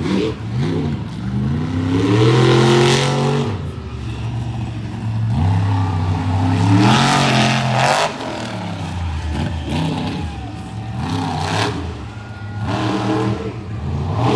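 Monster truck engine revving hard, its pitch climbing and then dropping, twice: about two seconds in and again around six seconds in, with lower engine running between.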